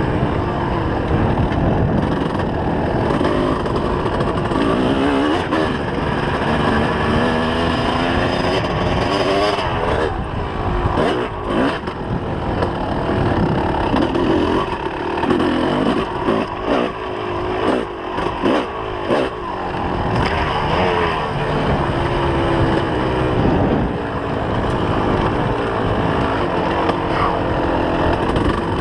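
2004 Kawasaki KX250's two-stroke single-cylinder engine revving up and falling back again and again under the rider's throttle, with a choppier middle stretch of quick on-off throttle and sharp knocks.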